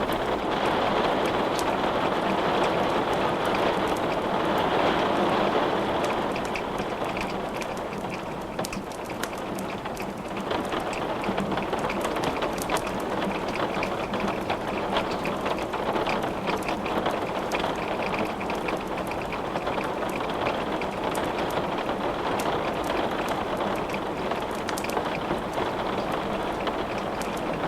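Steady rain hiss with the crackles and pops of wood burning in a fireplace. The rain eases slightly about seven seconds in, after which the sharp crackles stand out more.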